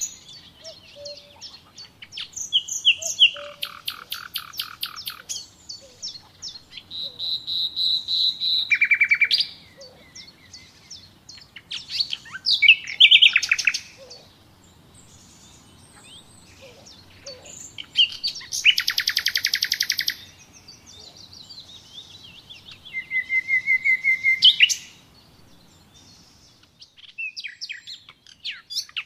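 Wild birds chirping and singing in phrases of rapid high trills and chirps, a few seconds apart, with short quieter lulls between them.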